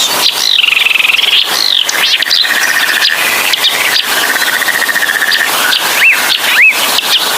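A small songbird singing without pause: long, rapid high trills broken by sweeping chirps, with two quick rise-and-fall whistles near the end.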